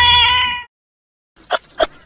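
A cat meowing, one call cut off abruptly about a third of the way in. After a brief dead silence a different sound starts: a rapid run of short, sharp calls or clicks, about three or four a second.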